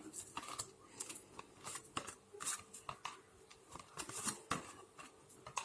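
Tarot cards being handled: a faint, irregular run of short papery snaps and rustles.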